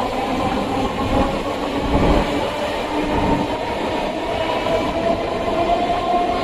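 Electric suburban train running along the line, with a steady rumble of wheels on track and a few held whining tones over it.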